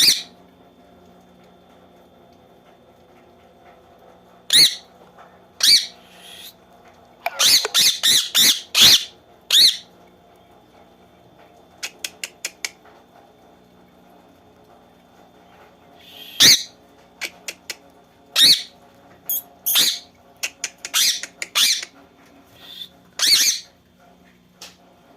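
Two parrots squawking at each other in a fight, in short high-pitched calls that come in bunches: a quick run about seven to ten seconds in and another from about sixteen to twenty-four seconds. A few faint quick clicks come around twelve seconds in.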